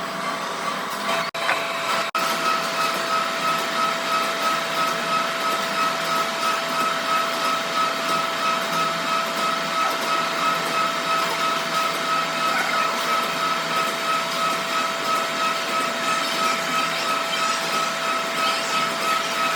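A workshop machine running steadily, with a constant whine and about three pulses a second, briefly cut off twice about one and two seconds in.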